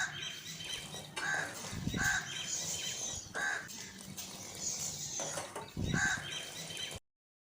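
Bird calls: a short pitched call repeated several times at uneven gaps, over fainter high-pitched chirping. It cuts off suddenly near the end.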